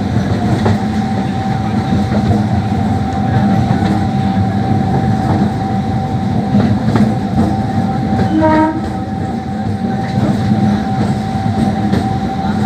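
MEMU electric train running along the track: a steady rumble of wheels on rail with a steady high whine and occasional rail-joint clacks. A brief horn note sounds a little past the middle.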